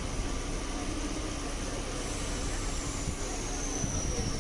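Chennai suburban electric local train running, heard from inside the carriage at the open door: a steady rumble and noise. About halfway through, a faint high whine comes in and falls slowly in pitch.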